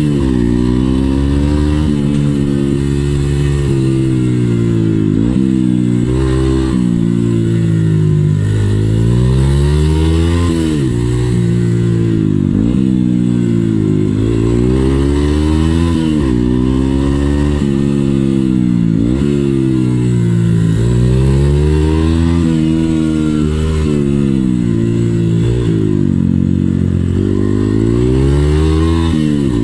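Yamaha XTZ125's air-cooled single-cylinder four-stroke engine heard from onboard, revving up and dropping back over and over, roughly every two seconds, as the throttle is opened and closed between tight slalom turns.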